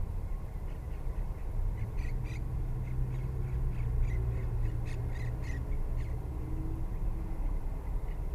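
Monk parakeets calling: many short squawks in quick runs, thickest about two seconds and five seconds in, over a steady low rumble.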